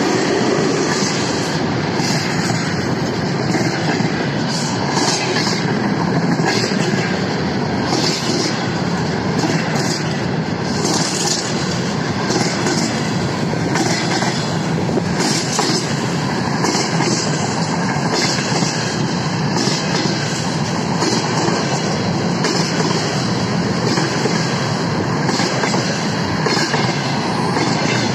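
Freight train of container flatcars rolling past: a loud, steady rumble of steel wheels on rail, with repeated clicks as the wheels cross rail joints.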